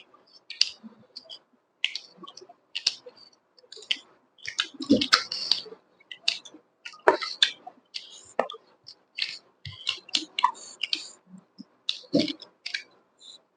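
Close-miked eating sounds of pork and chicken being chewed: irregular wet chewing clicks and lip smacks, with a few heavier bites.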